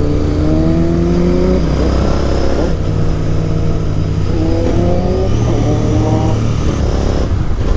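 Royal Enfield Interceptor 650's parallel-twin engine accelerating on the road. Its pitch climbs and drops back at each of several gear changes, with wind rushing over the microphone.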